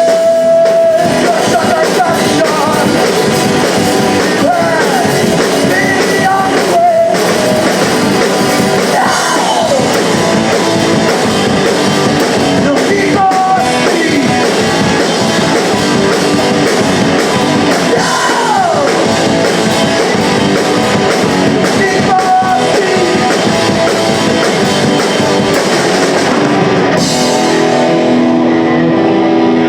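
Live punk rock band playing loud distorted electric guitars, drums and vocals, with sliding guitar notes. Near the end the cymbals and drums drop out, leaving sustained guitar chords ringing.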